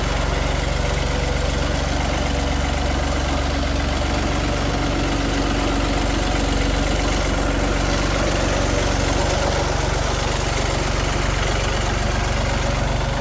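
Tractor engine running steadily at low speed, its firing a fast even pulse, slightly stronger for a few seconds in the middle.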